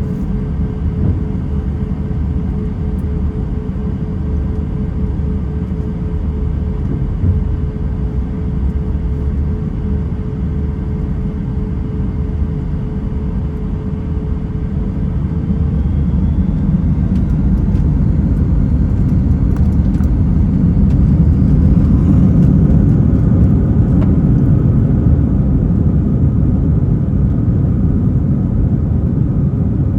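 Airbus A320 jet engines and airframe rumble, steady with a held tone at first. About halfway through they grow louder with a rising whine, as the engines spool up.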